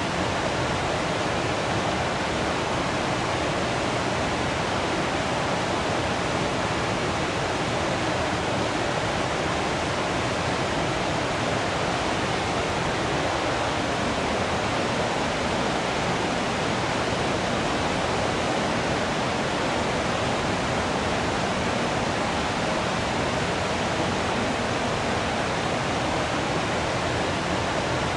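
Waterfall: water falling and rushing in a steady, unchanging roar of noise.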